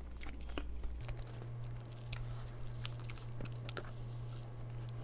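Close-miked chewing of soft cream-filled chestnut roll cake: small wet mouth clicks and smacks, under a steady low hum that steps up in pitch about a second in.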